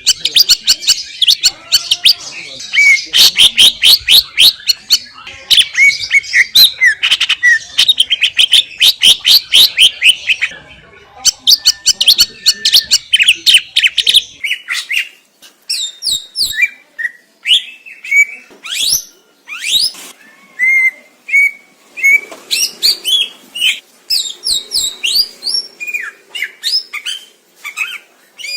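Greater green leafbird (cucak ijo) singing. For about the first half it is a dense, fast chattering warble; after that come separate clear whistled notes and quick sweeping calls.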